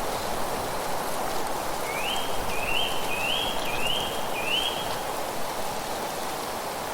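A bird whistling a run of five rising notes, each sliding up and briefly holding, from about two seconds in until about five seconds in, over a steady rushing of wind through foliage.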